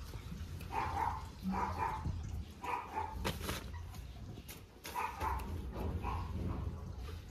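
Dogs barking in short, repeated barks, about one every second, over a steady low hum.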